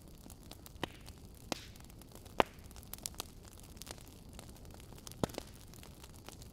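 Wood fire burning in a fireplace: a low steady hiss with scattered sharp crackles and pops, the loudest about two and a half seconds in.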